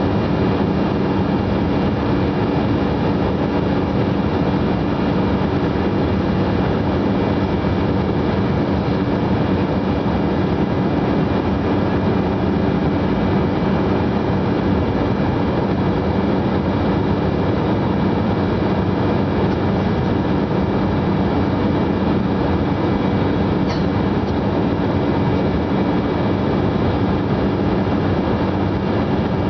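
Jet airliner cabin noise in flight: a steady roar of engines and rushing air, with several constant hum tones running through it.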